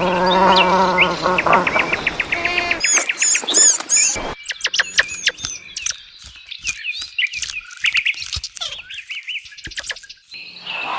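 A drawn-out, wavering animal call in the first second and a half, then a quick run of rapid notes, then small birds chirping and twittering in short high notes until near the end.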